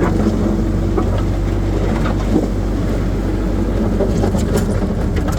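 Skid steer engine running steadily under the operator, with a constant low hum. A few light clanks come near the end.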